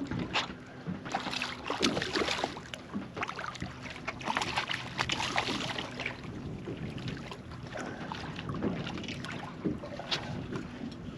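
Wind gusting on the microphone aboard a small boat at sea, in irregular surges with a few sharp knocks, over a faint steady low hum.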